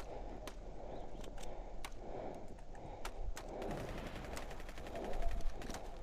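Airsoft replicas firing: scattered single shots as sharp clicks, then a rapid run of automatic fire past the middle, over a constant low rustling noise.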